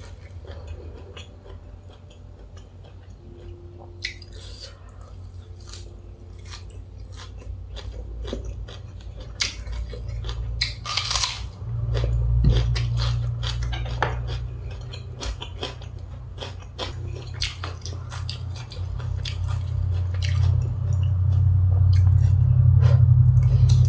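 Close-up chewing and biting of grilled beef salad, full of small wet mouth clicks, with occasional clinks of a spoon against a dish. A low rumble swells about halfway through and again near the end.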